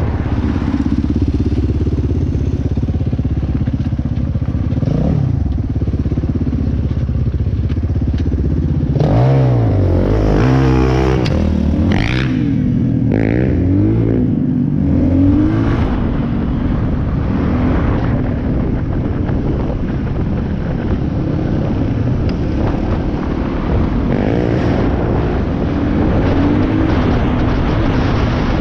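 Dirt bike engine running under way on a trail, revving up and down through the throttle, most busily about a third of the way in.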